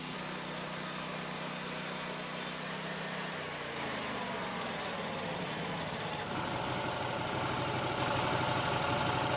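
Portable band sawmill's engine running steadily; its pitch shifts about three to four seconds in, and a higher whine builds from about six seconds as the sound grows louder.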